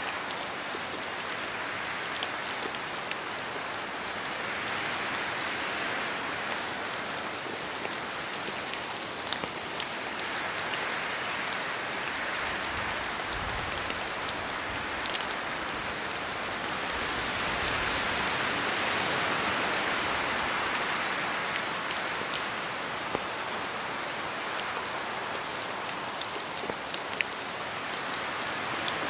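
Steady rain falling, with many small separate drop hits over a continuous hiss; it swells louder a few times, most of all about two-thirds of the way through.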